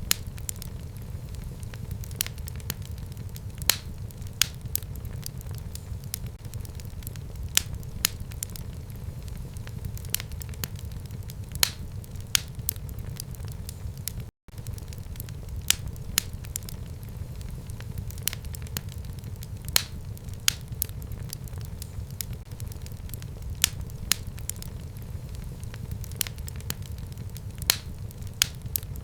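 Fire burning in a fireplace: a steady low rumble of flames with frequent sharp crackles and pops, a few of them louder than the rest. The sound cuts out for an instant about halfway through.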